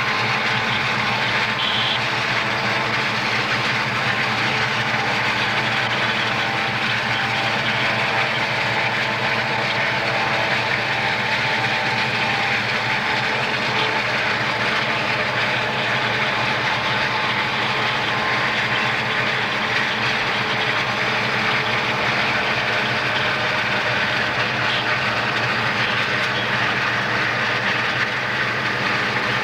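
Southern Pacific diesel freight locomotives running under power, heard from a car driving alongside the train, mixed with steady road and wind noise.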